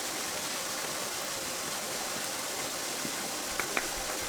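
Steady hissing background noise with two light clicks about three and a half seconds in.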